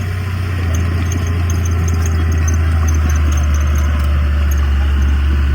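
Heavy diesel engine of an earthmoving machine running steadily with a deep, even drone.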